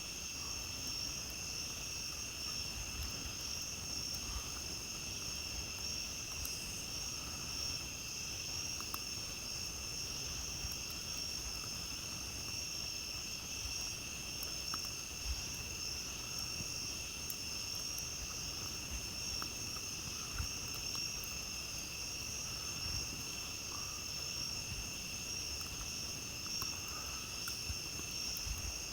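Steady, unbroken chorus of night insects trilling at a high pitch, with a few faint, scattered crackles from a campfire.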